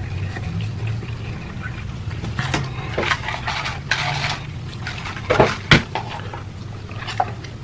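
Noodle eating: scattered slurps and sharp clicks of utensils against a bowl, over a low steady hum.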